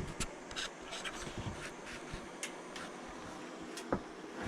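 Wood fire crackling in a small Pomoly Dweller wood-burning stove: a soft steady hiss with scattered small pops and ticks, one a little louder near the end.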